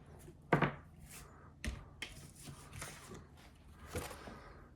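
A few knocks and clicks of steel parts being handled and fitted together, the loudest about half a second in, with smaller ones after.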